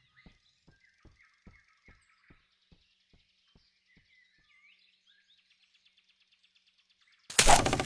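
Animated-film sound effects: soft birdsong chirping over a run of faint, evenly spaced ticks, about two or three a second, that fade away over the first four seconds. Near the end comes a loud, sudden noise lasting about half a second.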